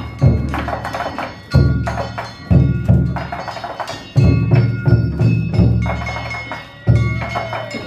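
Danjiri festival music (narimono): a heavy taiko drum struck roughly once a second, with small hand gongs (kane) clanging and ringing over it.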